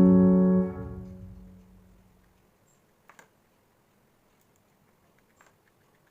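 Final sustained piano chord of the background song dying away over about two seconds, then a few faint short clicks.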